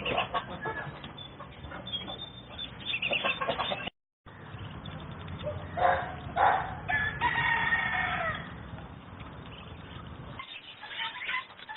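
Farmyard chickens clucking, with a rooster crowing once about halfway through.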